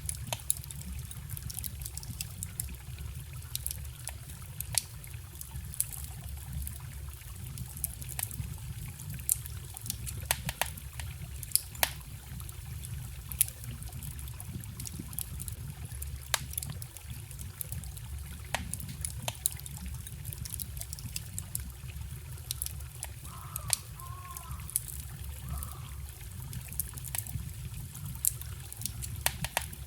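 Wood fire crackling, with sharp irregular pops, over the steady trickle of a forest stream.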